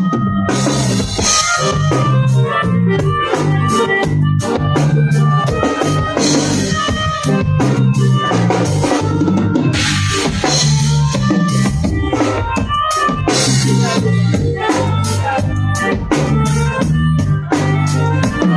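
Band music with a drum kit and a strong bass line, playing steadily and cutting off suddenly at the end.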